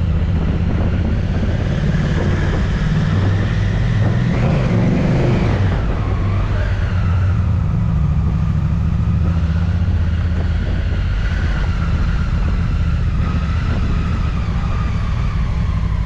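Motorcycle engine running steadily under way, its pitch rising and wavering briefly about four to six seconds in before settling.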